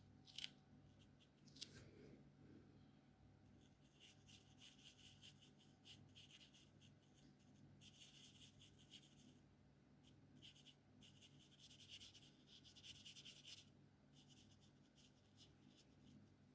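Alcohol marker tips rubbing across paper in faint bouts of quick back-and-forth colouring strokes, after two sharp clicks in the first two seconds.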